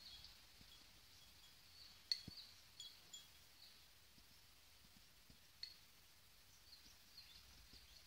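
Faint, scattered high chirps and chips of small birds, the sharpest about two seconds in and another near the middle, over a quiet hush.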